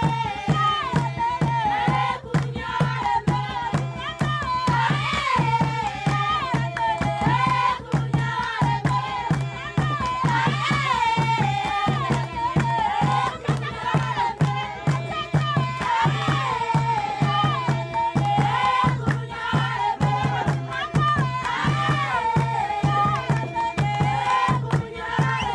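A group of voices singing a short melodic phrase that repeats every few seconds, over steady drumming with rattles: a folk chant.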